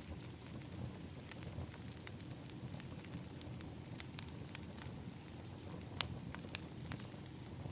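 Fire crackling in an outdoor fire pit: irregular sharp pops and snaps over a steady low rush of the flames, with the loudest pop about six seconds in.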